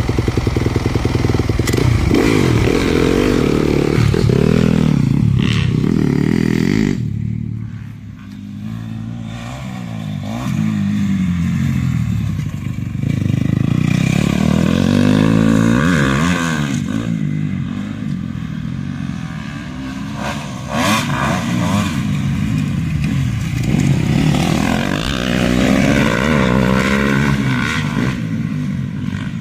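Yamaha YZ250F four-stroke single-cylinder motocross bike riding around the track, its engine revving up and falling back again and again. The sound drops away sharply about seven seconds in, then builds again.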